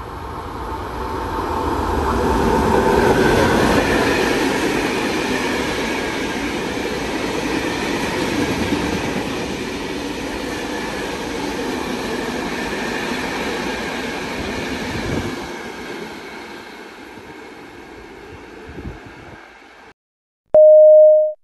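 A train running through the station without stopping: wheel and rail noise builds to its loudest a few seconds in, holds steady, then fades away after about 15 seconds. Near the end a two-note falling station chime sounds.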